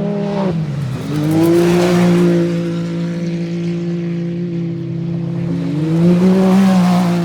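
Off-road race truck engines running hard as trucks pass at speed. The engine pitch dips about half a second in, climbs back, and swells again near the end.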